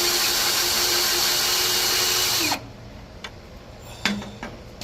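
Electric drill boring a bolt hole through metal, the motor running steady under load, then winding down and stopping about two and a half seconds in. A few light clicks and a single knock follow.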